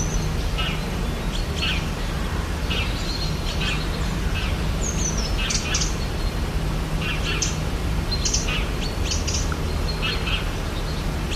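Rainforest ambience: several birds chirping and calling in short, high notes, one a falling whistle about five seconds in, over a steady low rumble.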